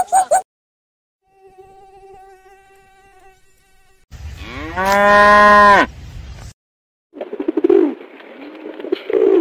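A cow mooing once, loud, the pitch rising and then held for a second or so before it stops. A faint steady hum comes before it, and a rougher, broken sound follows.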